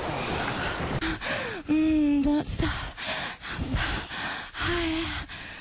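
A steady rushing hiss stops about a second in. Then a person breathes hard in quick gasps with short pitched moans, which is sexual moaning.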